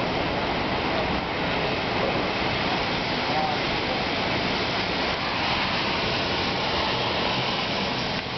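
Heavy rain pouring down in a torrent, a loud, steady, dense hiss.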